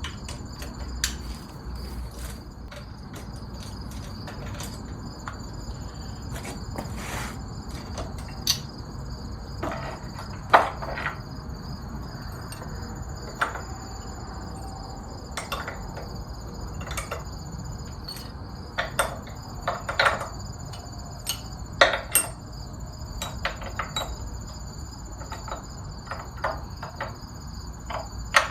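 Crickets chirping steadily, with scattered sharp metallic clinks and knocks, the loudest about ten seconds in.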